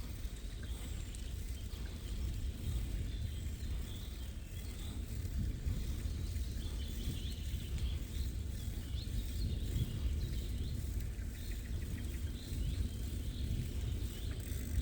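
Songbirds chirping and singing in short calls, more often in the second half, over a steady low rumble.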